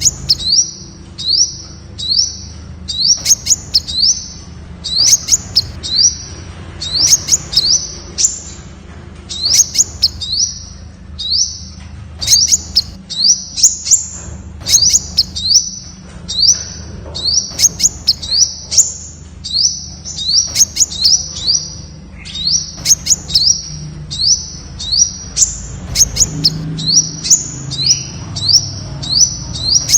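Temminck's sunbird calling: a long run of short, high chirps, each sweeping quickly upward, repeated about twice a second.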